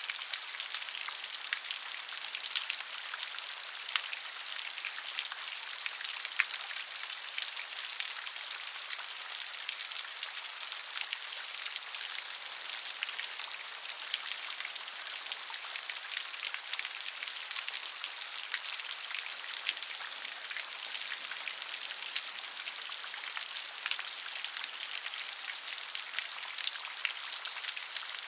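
Steady rain falling, an even hiss of rainfall with many individual drops pattering close by.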